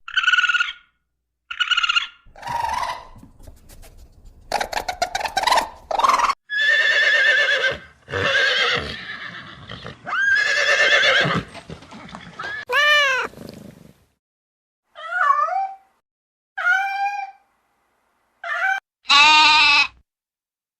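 Horses neighing and whinnying in a run of short, separate animal calls, each breaking off abruptly.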